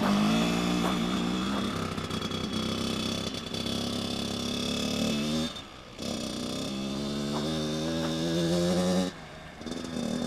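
Dirt bike engine running as it is ridden, its note climbing and sinking with the throttle. It drops away sharply twice, about halfway through and again near the end, before picking up again.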